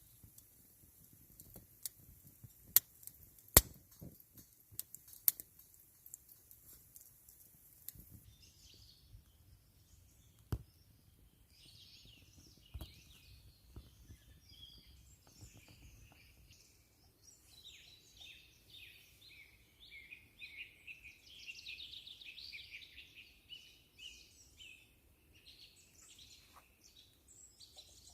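Songbirds singing and chirping, busiest a little past the middle. In the first several seconds a run of sharp clicks and snaps comes first.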